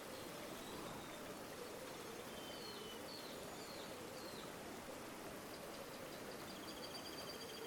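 River water flowing steadily. Small birds call over it: a few short, falling chirps about three seconds in and a rapid high trill near the end.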